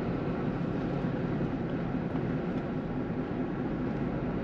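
Steady engine and road noise of a Chevrolet Colorado ZR2 Bison pickup truck driving along.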